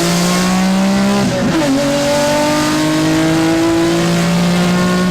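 BMW E46 M3's S54 straight-six accelerating hard, its pitch climbing steadily through a gear, with a quick upshift about a second in, after which it climbs again.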